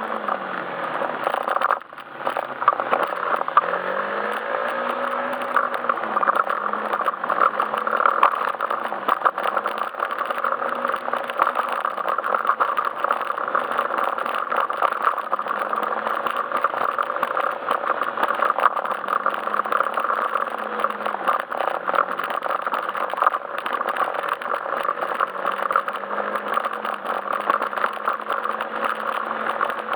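Yamaha Majesty S scooter's single-cylinder engine running on the move, its pitch rising and falling with the throttle, with rattling and road noise throughout. The sound drops away briefly about two seconds in.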